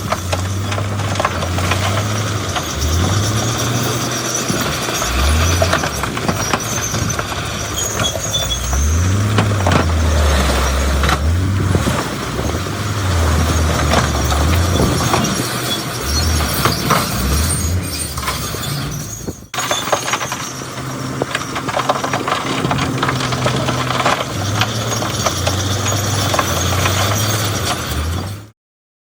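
Heavy diesel earthmoving machinery at work: engines revving up and down under load, with squealing, clanking and rock crunching over the top. A brief break about two-thirds through, and the sound cuts off suddenly just before the end.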